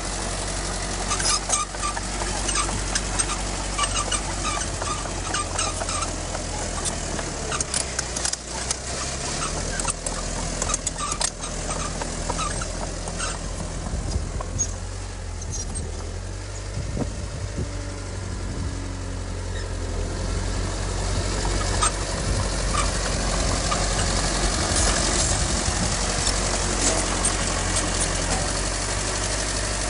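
Heavy diesel engine of earthmoving machinery running steadily, with scattered clanks and knocks. It grows somewhat louder in the second half.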